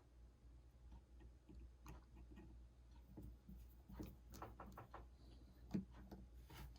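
Near silence with a few faint, scattered small clicks and taps, more of them in the second half, from parts being handled while working on an iPhone 6 during a screen replacement.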